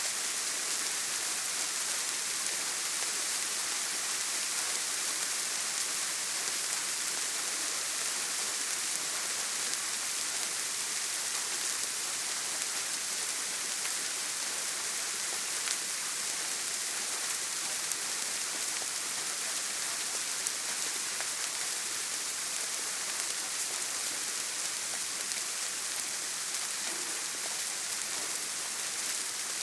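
Steady, even rain on a tin roof, a dense hiss with scattered faint drop ticks.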